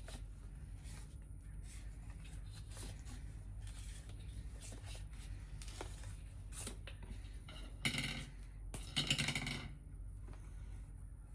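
Light metallic clinks and rattles over a low steady hum, with two louder clattering bursts about two-thirds of the way through.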